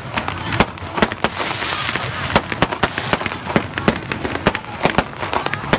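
Aerial fireworks going off in quick succession: sharp bangs, two or three a second, with crackling between them.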